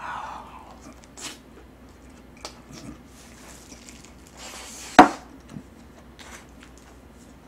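Mouth sounds of someone chewing a big mouthful of fried rice, with faint smacks and clicks. A short breathy hiss ends in one sharp smack about five seconds in, the loudest sound.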